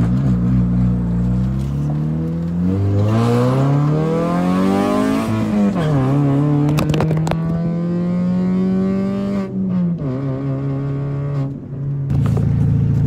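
Mini Cooper's engine pulling hard under acceleration, loud at the exhaust: its pitch climbs steadily for about five seconds, drops sharply at an upshift, holds steady, then falls again near ten seconds. The owner thinks the exhaust may have a bad leak.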